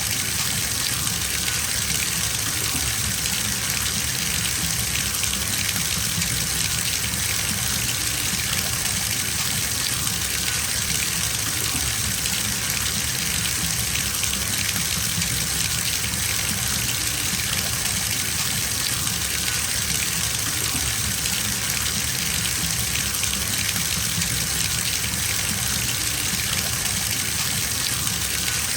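Water gushing steadily from a tap into a filling bathtub, an even, unbroken rush.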